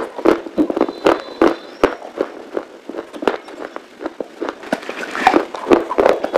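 Close-miked chewing of dry baked clay, with rapid, irregular sharp crunches and cracks, several a second.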